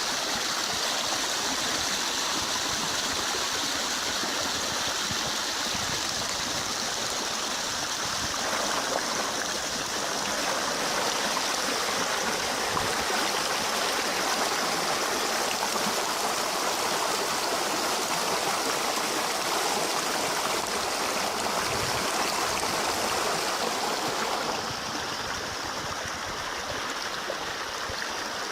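Rain-swollen river water rushing steadily. The sound grows fuller about a third of the way in and turns a little duller and quieter near the end.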